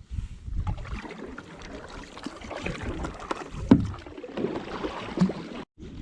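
Kayak paddle strokes: the blades dipping and splashing in the water in an irregular rhythm, the loudest splash a little past halfway.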